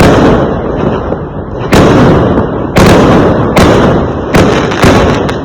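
Fireworks going off: five or six loud bangs about a second apart, each dying away over most of a second before the next.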